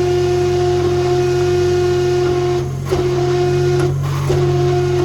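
12-ton hydraulic forging press running: its pump gives a steady high whine over a low hum, which breaks off briefly twice in the second half as the ram is worked, each time with a small knock.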